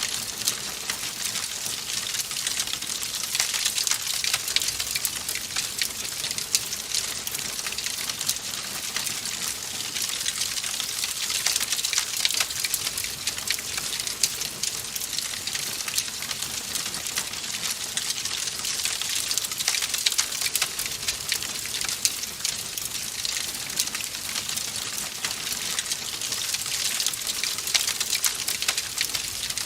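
Wood fire crackling in a fireplace: a steady hiss full of small, quick crackles and snaps throughout.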